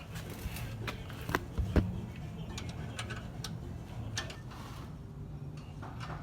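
Scattered metallic clicks and clinks of hand tools and bolts during work on a truck's transmission, over a steady low hum.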